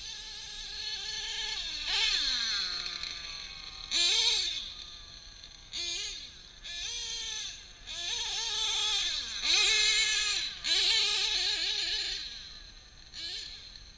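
Drag-modified Novarossi .28 two-stroke nitro engine in a Kyosho 1/7-scale Nitro Scorpion, revving hard in about six bursts while the truck climbs a hillside. Its pitch rises and falls with each throttle pull, loudest about four seconds in and again about ten seconds in.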